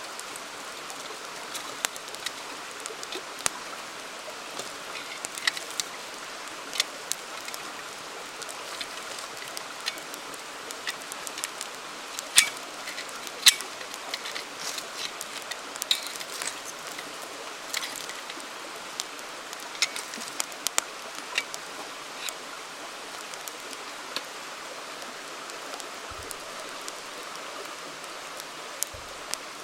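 Wood campfire crackling, with irregular sharp pops and snaps, a few louder ones about halfway through, over the steady rush of a flowing river.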